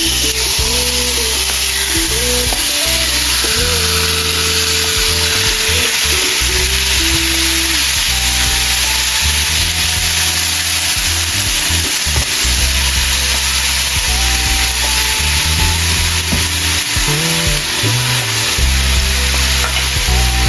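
Cubes of yogurt-marinated chicken frying in olive oil in a preheated pan, sizzling steadily.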